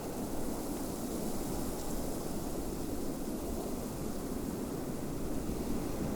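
Steady snowstorm wind: an even, low rushing noise with a faint high hiss.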